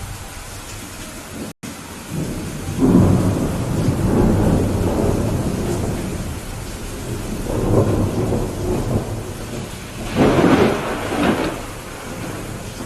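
Steady rain with rolling thunder. Low rumbles start about two seconds in and swell and fade twice, then a louder peal comes near the end. The sound cuts out for an instant shortly before the first rumble.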